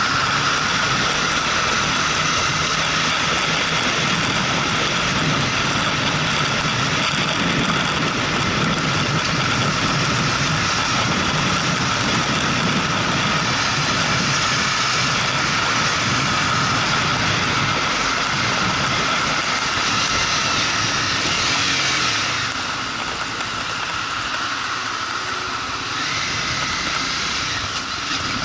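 Motorcycle engine running while riding, with steady wind and road noise; the sound drops a little in level about 22 seconds in.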